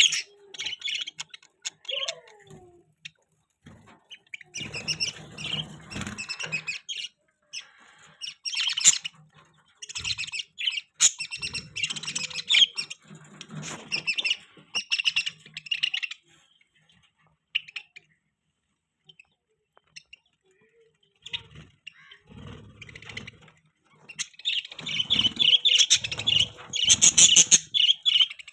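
Pet budgies (budgerigars) chirping and chattering in bouts, with a lull partway through and the busiest, loudest chirping near the end.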